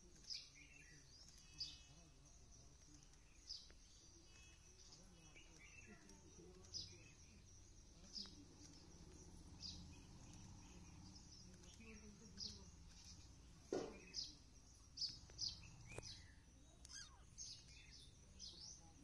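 Faint outdoor ambience: a bird's short, high, falling chirps repeat every second or two, more often in the second half, over a steady high hiss. One sharp click comes about two-thirds of the way through.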